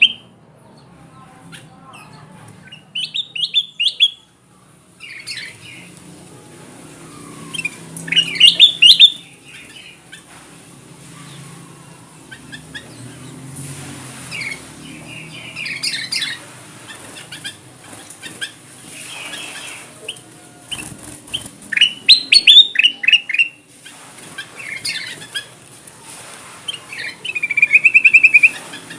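Kutilang emas bulbul singing: bursts of rapid, bright chirping phrases every few seconds, ending in a fast trill near the end. This is lure song used to call in wild birds of the same species.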